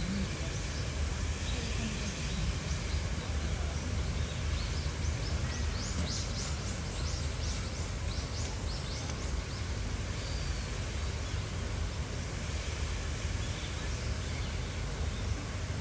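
Steady outdoor background noise with a low rumble, and a run of short, high chirps in the middle.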